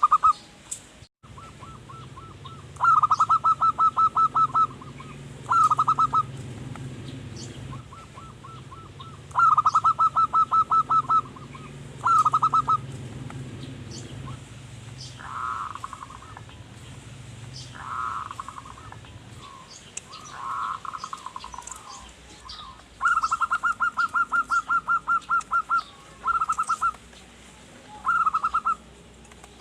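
Zebra dove (perkutut) singing its staccato cooing song: repeated runs of rapid, evenly pulsed notes, with a few softer, blurred calls between them in the middle. Faint high chirps of small birds sound in the background.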